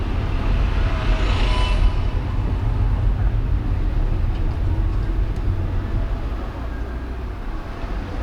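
City traffic heard from a car driving through town: a steady low rumble of engines and tyres, with a brief hiss about a second in.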